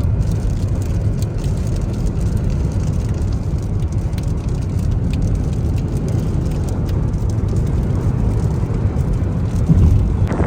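Steady low rumble of a car on the road, with faint scattered ticks higher up.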